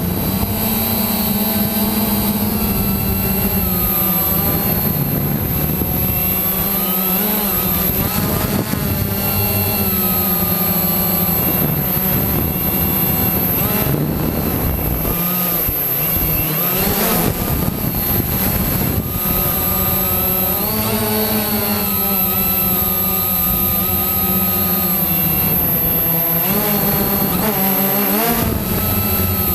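Quanum Nova quadcopter's brushless electric motors and propellers whining in flight, the pitch rising and falling again and again as the throttle changes.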